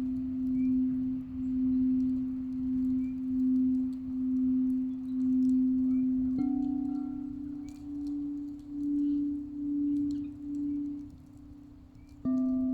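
Quartz crystal singing bowls ringing: a long, deep tone that swells and fades about once a second. A second bowl is struck about halfway through and rings on a slightly higher note, and another sharp strike comes near the end.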